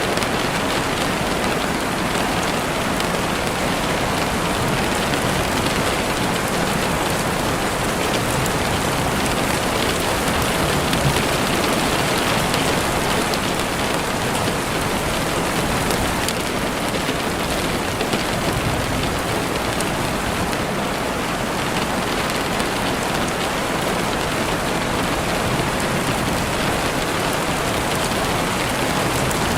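Steady rain falling in a forest, pattering on the ground and leaves.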